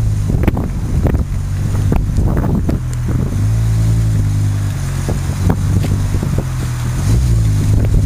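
BMW M6's V10 engine running at a steady pitch, with wind buffeting the microphone.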